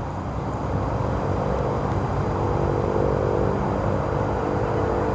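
A steady low rumble with a faint engine drone that comes in about a second and a half in and holds to near the end.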